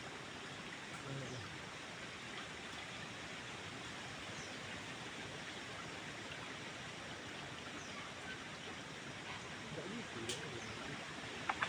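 Forest stream water running steadily, with a few faint short bird chirps above it and a couple of sharp clicks near the end.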